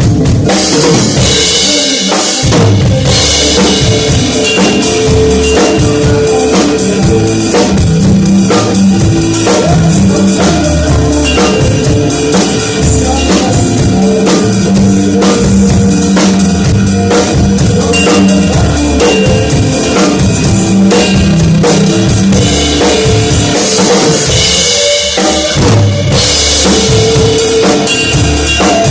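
Drum kit played continuously in a steady groove, with bass drum, snare and cymbals. It is loud, over held bass and other pitched instrument notes from a band or backing track.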